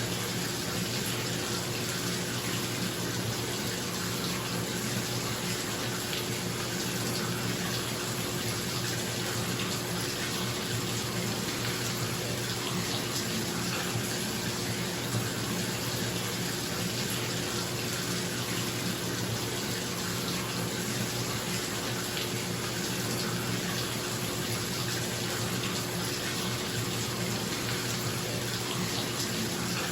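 Bathtub tap running steadily into a tub, a constant rushing of water, with a bathroom exhaust fan humming low and steady underneath.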